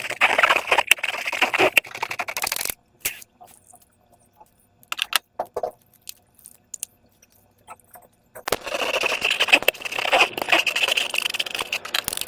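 Sticky slime being squished and pulled by hand, making a dense crackling in two spells: one in the first two and a half seconds and another from about eight and a half seconds in, with scattered small clicks and pops between.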